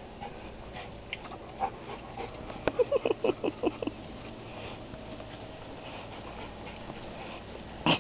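A dog lets out a quick run of about eight short, sharp barks in a little over a second, a few seconds in, during rough play. A single short knock or bump comes near the end.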